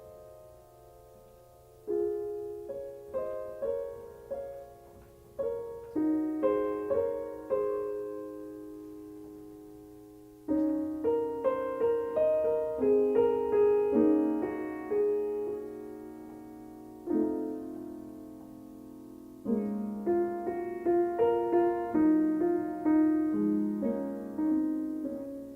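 Solo piano music, slow phrases of struck notes and chords that ring out and fade between phrases.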